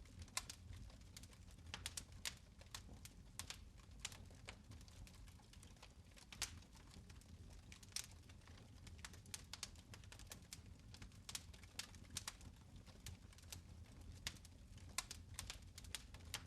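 Fire burning in a fireplace, crackling with frequent sharp, irregular pops over a low steady rumble.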